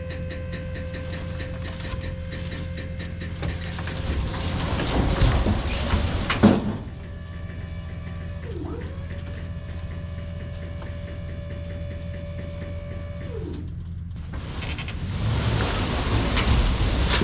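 A vehicle engine runs steadily. A high mechanical whine dips, holds level for about five seconds, then winds down. Two louder rushing stretches come, one near the start and one near the end.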